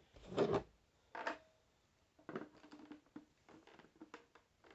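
Plastic toy bank and its battery compartment being handled as AAA batteries are fitted back in: two louder knocks in the first second and a half, then a run of small light clicks and taps.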